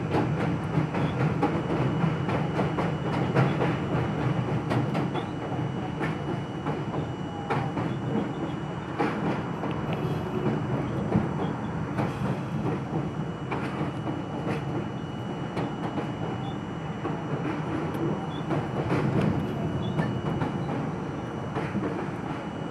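R42 subway car in motion: a steady rumble of wheels and running gear, with a faint steady whine and frequent clicks as the wheels pass over rail joints.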